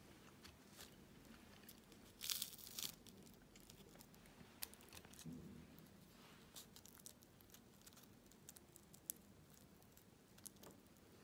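Faint handling sounds: a brief crinkling rustle about two seconds in, with scattered small clicks and taps.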